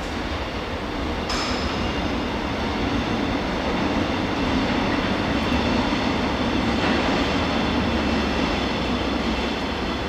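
Train running on the track: a continuous rumble and wheel noise with a steady low hum, swelling slightly through the middle. A short high-pitched squeak comes about a second in.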